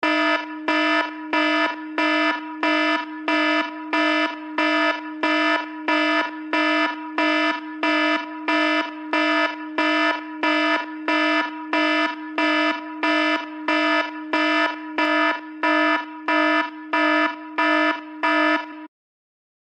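iPhone built-in alert tone: a buzzy, alarm-like note at one steady pitch, pulsing about one and a half times a second. It cuts off about a second before the end.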